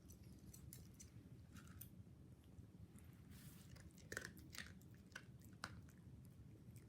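Mame shiba dog chewing her breakfast off a hand: faint, irregular crunching bites, clearest in the second half.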